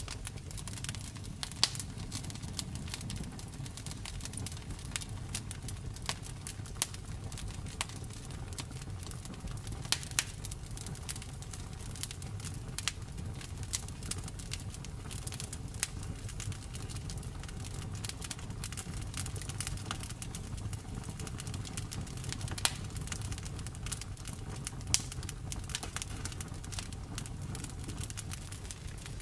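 Wood fire burning steadily, with a low rumble under frequent small crackles and a few louder sharp pops.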